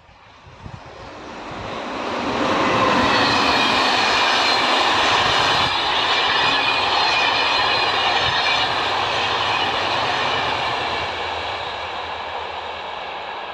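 Locomotive-hauled Corail passenger train passing. The rumble of wheels on rail swells over a couple of seconds, stays loud with a steady ringing hum for several seconds, then eases off near the end.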